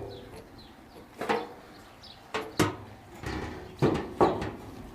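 Burner unit of a gas fire table being set down into its opening in the table frame: a series of about five knocks and clunks as it is fitted into place.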